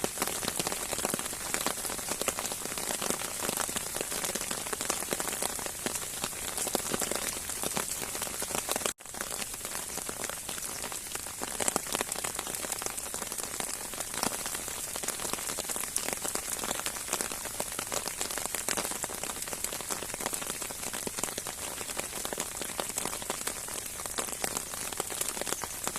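Heavy rain falling steadily, a dense patter of many drops striking a surface. The sound cuts out for an instant about nine seconds in.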